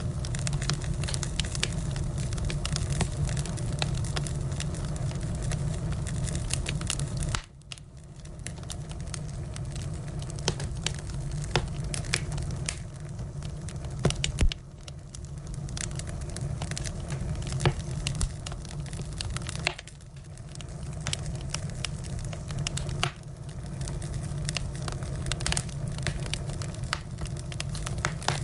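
Firewood fire burning, with irregular crackles and sharp pops over a steady low rustle of flame. The low rustle drops suddenly about seven seconds in and builds back up.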